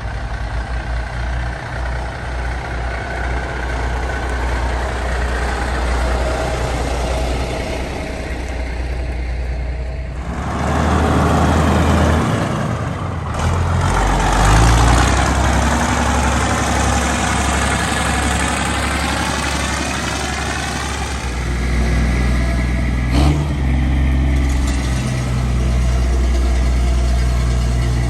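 Diesel semi-truck engines idling and running, with a truck driving close past the microphone through the middle, its sound sweeping as it goes by. A brief sharp click comes late on.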